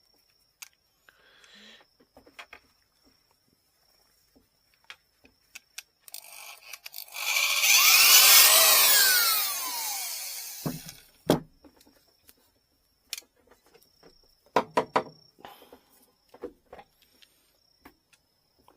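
Power drill boring into a bamboo rod section for about four seconds, its pitch swooping as it spins, starting about six seconds in. Scattered clicks, then a few sharp knocks, follow as the work is handled.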